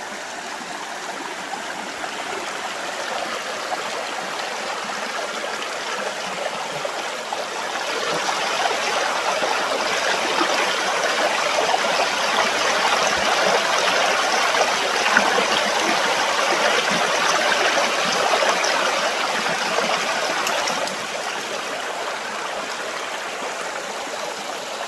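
Creek water running, a steady rushing that grows louder about eight seconds in and drops back suddenly near the end.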